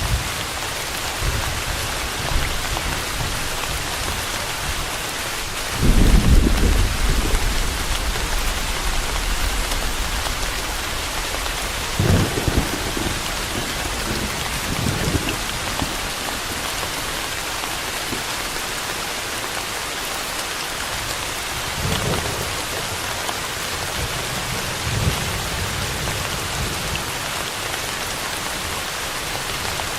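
Steady heavy rain falling, with low thunder rumbling several times. The loudest, longest roll comes about six seconds in, and shorter rumbles follow later.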